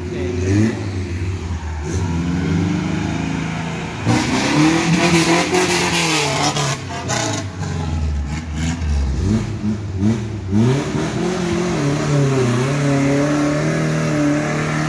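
Suzuki Jimny 4x4 engines revving hard under load on a muddy climb, the pitch repeatedly rising and falling. A loud rushing noise joins in from about four to seven seconds in.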